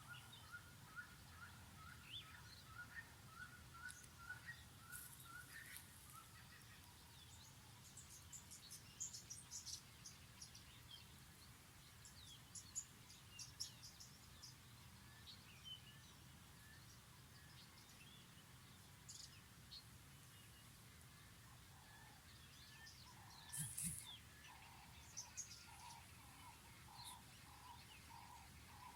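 Faint birdsong from several birds over low steady background noise. A series of repeated notes climbs slowly in pitch over the first few seconds, scattered high chirps follow through the middle, and a run of lower repeated notes, about two a second, comes near the end.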